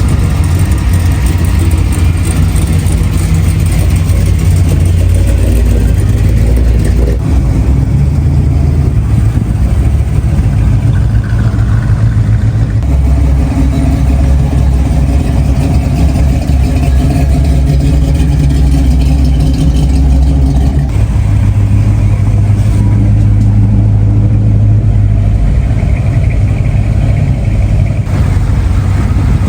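Classic car engines rumbling low and loud, the engine note shifting in pitch several times as engines rev or different cars run.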